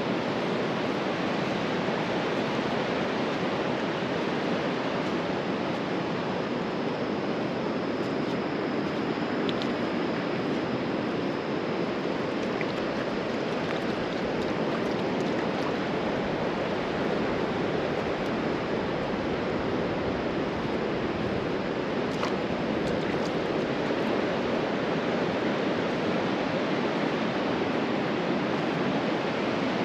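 Steady wash of ocean surf breaking on a beach, a continuous even rush with no distinct single breakers.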